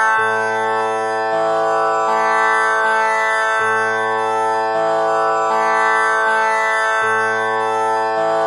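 Tanpura drone tuned to A (6 kattai): its strings plucked one after another in a slow repeating cycle, the lowest string coming round about every three and a half seconds, each note ringing on into a continuous rich drone.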